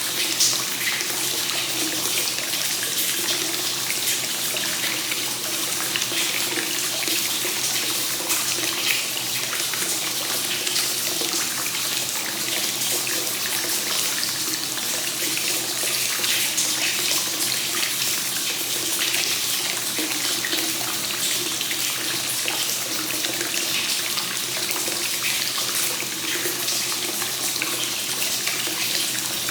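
Hot spring water pouring steadily from the inflow into a bath, a continuous splashing run of water.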